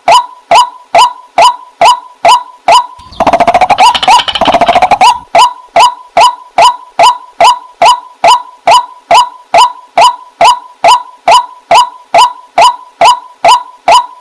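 Waterhen calling: a short, sharp note repeated steadily about two and a half times a second, broken about three seconds in by some two seconds of fast, rattling calls before the steady notes resume.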